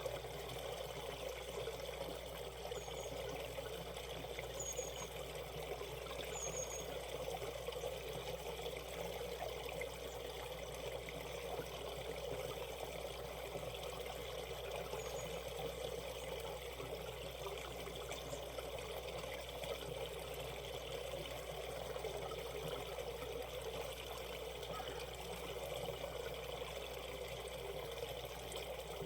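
Shallow valley stream running over rocks, a steady, even rush and trickle of water. A few faint, high, short chirps sound over it in the first half.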